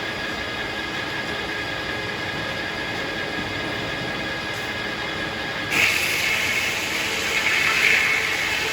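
Circular sawmill running steadily. About six seconds in, a louder, harsher hiss starts suddenly as the blade cuts into a hackberry log, and it runs to the end.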